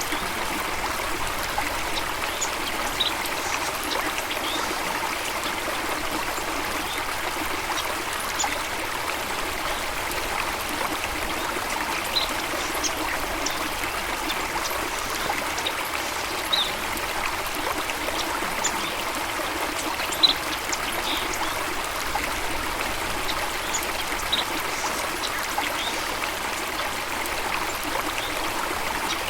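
Running water from a stream or small waterfall, a steady rushing and trickling, with a few short high chirps scattered through.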